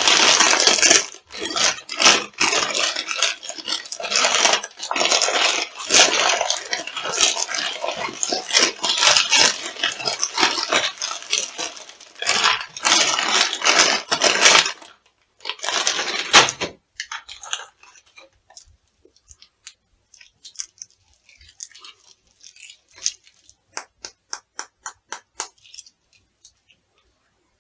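Crunchy food being crushed underfoot: dense crunching and crackling for about fifteen seconds, then a sparse run of small clicks and crackles.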